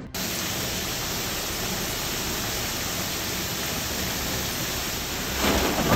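Heavy storm rain, a steady even hiss. Near the end there is a short louder burst.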